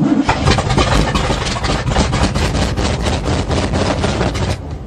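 The starter cranking the 1977 GMC's 400 small-block V8 in an even, rhythmic turning-over for about four and a half seconds. It stops near the end without the engine catching. The owner thinks the carburettor isn't drawing much fuel after being primed by hand following months of sitting.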